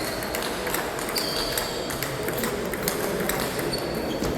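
Table tennis balls clicking sharply and irregularly off bats and tables in a rally, over the steady background noise of a sports hall, with two short high squeaks about a second in and near the end.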